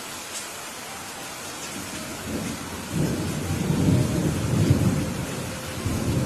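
Steady rain with a roll of thunder building about two seconds in, loudest in the middle, easing and swelling again near the end.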